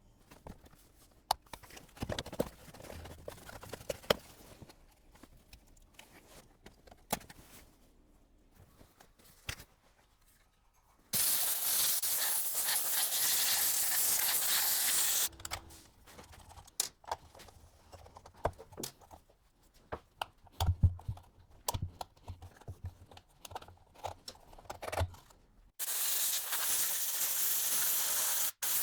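Scattered clicks and knocks of parts and tools being handled during heater blower fan work, with two steady hisses of about four seconds each, one in the middle and one near the end, that start and stop sharply.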